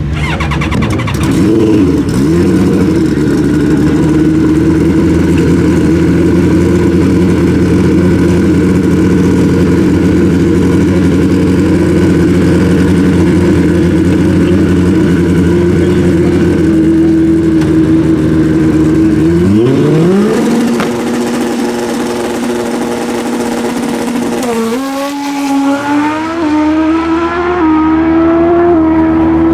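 Pro Street drag motorcycle engines running loud at a steady high rev, with a quick rise in pitch about twenty seconds in. Near the end the engine note climbs in steps, as when pulling through the gears.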